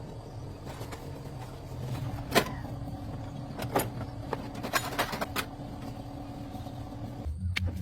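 A machine hum runs steadily, broken by several sharp knocks.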